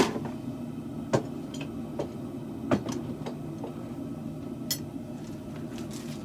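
Hand hammer tapping on steel during katana work: about seven sharp, irregularly spaced strikes over a steady low hum.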